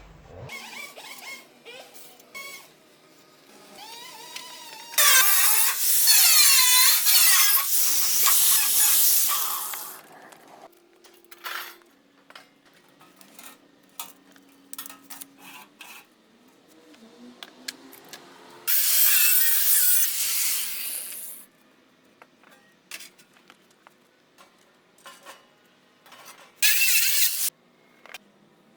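Sheet steel being cut with a power tool, in three runs: a long cut of about five seconds, a shorter one of two or three seconds, then a brief one near the end. Between the cuts there are scattered clicks and knocks as the metal is handled.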